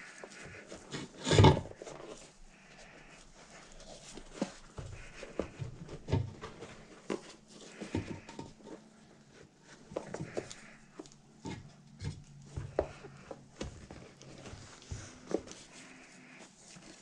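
Soft rubber paddle tire and foam insert being forced together by hand: scattered knocks, taps and rubbing noises, with a louder bump about a second and a half in.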